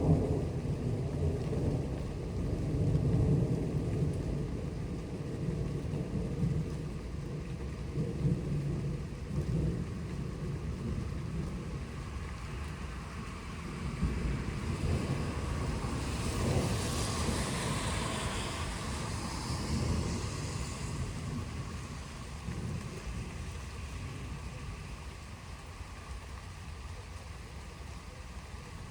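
Rolling thunder rumbling low over steady rain, strongest in the first several seconds and fading away toward the end. About halfway through, a rushing hiss swells and dies away.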